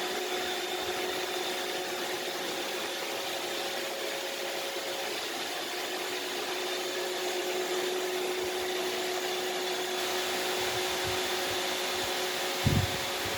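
iRobot Roomba robot vacuum running as it drives itself back to its charging dock: a steady whirring hiss from the suction motor with a constant whine over it. A couple of low knocks come near the end.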